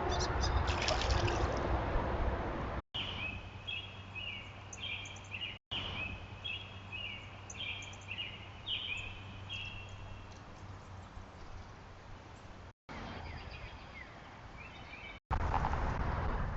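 Lake-side outdoor sound made of several short clips cut together: a bird gives a short high call many times over, over a low steady hum, with noisier stretches of outdoor sound at the start and near the end.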